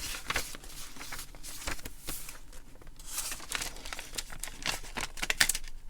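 Irregular rustling and crinkling of fabric scraps and paper as a handmade journal's pages are handled and turned.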